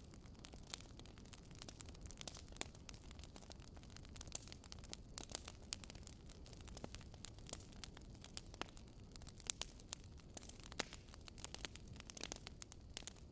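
Wood fire crackling: irregular sharp pops and snaps, some louder than others, over a low steady rumble of burning.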